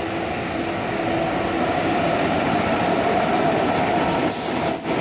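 A train hauled by Indian Railways electric locomotives passes close by at speed. The wheels and running gear make a loud, steady noise that builds slightly, with a brief dip near the end.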